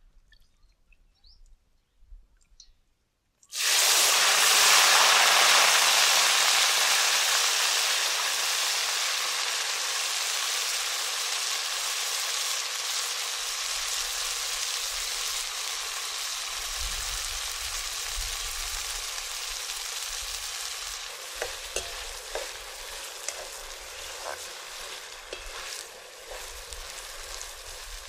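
Wet chopped gunda hitting hot oil in a steel wok: a sudden loud sizzle starts about three and a half seconds in and slowly dies down. Near the end a steel spoon stirs the frying gunda, with scattered ticks and scrapes against the wok.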